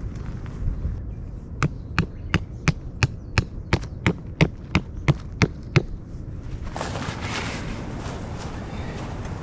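About a dozen sharp strikes in a steady rhythm, roughly three a second, then they stop and a rustling follows near the end.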